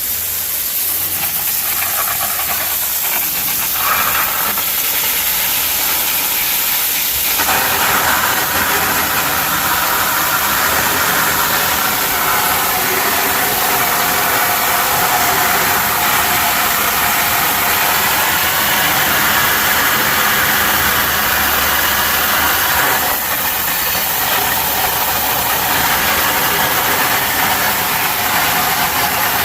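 A hose spraying a strong jet of water, a steady loud hiss that grows fuller about seven seconds in as the spray hits a different surface.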